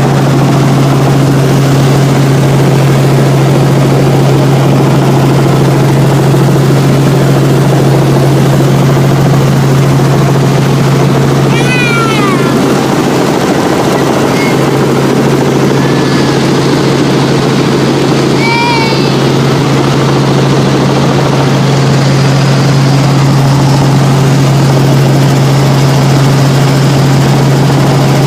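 Helicopter running steadily: a constant low hum with loud rushing noise. Two brief high, falling sounds rise above it, about halfway and two-thirds of the way in.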